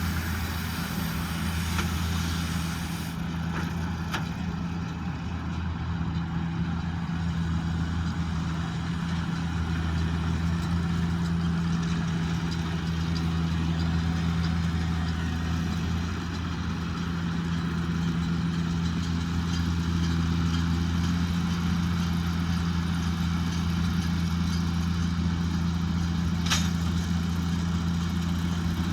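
JCB Fastrac 2170 tractor's engine running at a steady working speed while driving a McHale Fusion 2 integrated baler-wrapper: an even, low drone that holds level throughout, with a short sharp click near the end.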